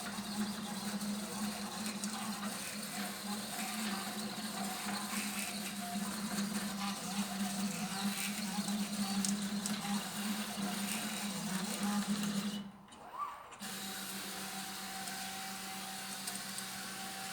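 Stepper motors of a homemade CNC plasma table driving the gantry in a fast test run at 10,000 mm/min: a steady buzzing drone with a rattle over it. It stops briefly about 13 seconds in, then a smoother steady hum follows and cuts off suddenly.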